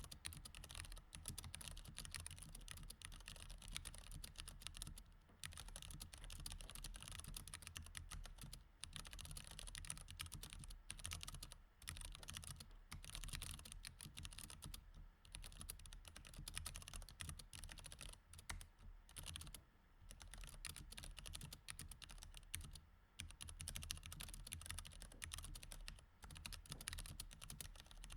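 Mechanical keyboard with Cherry MX Red switches, typed on in a quiet, steady stream of key clicks with a few brief pauses between bursts.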